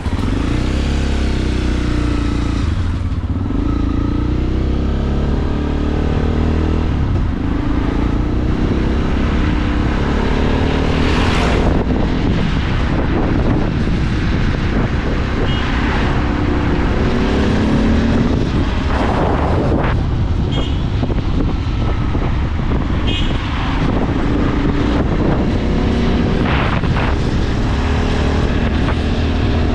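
Motorcycle engine running under way, its pitch rising and falling as the throttle and gears change, over steady road and wind noise, with several brief whooshes of vehicles going past.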